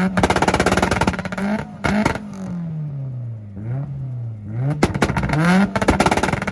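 Mitsubishi car engine revved hard onto a two-step limiter, holding there with rapid crackling pops. The revs drop away about two seconds in, then it is revved back onto the limiter and pops again about five seconds in.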